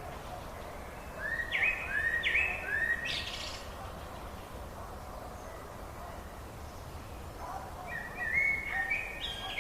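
A songbird singing: a run of short repeated notes about a second in, and another phrase near the end, over a steady low background noise.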